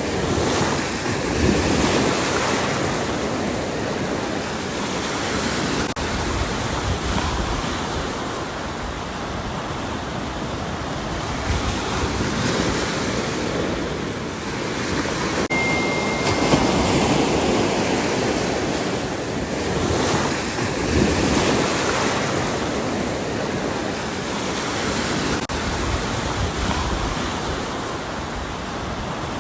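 Ocean waves breaking on a shore: a continuous wash of surf that swells and falls back every few seconds as each wave crashes.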